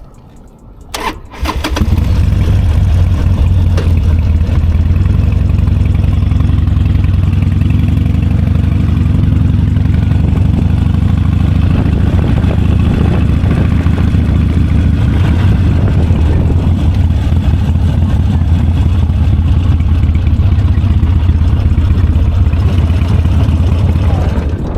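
Motorcycle engine turned over by the electric starter about a second in, catching almost at once, then running loudly and steadily at idle with a deep low throb. The sound stops abruptly near the end.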